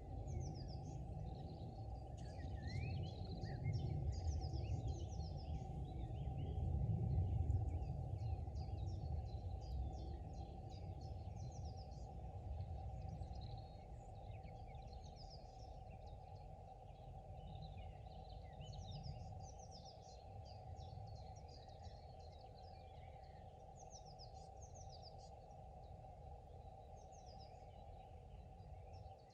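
Several small birds chirping and twittering, over a low rumble that swells in the first few seconds and then eases off.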